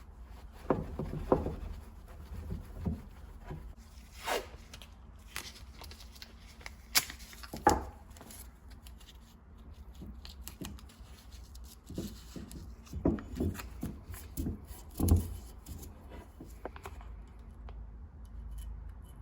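Hands handling small brass tool parts: irregular clicks, taps and rubbing, with a few sharper knocks.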